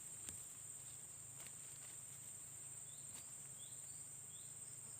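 Faint outdoor ambience of insects trilling steadily at a high pitch, with a few faint clicks and several short, faint rising chirps in the second half.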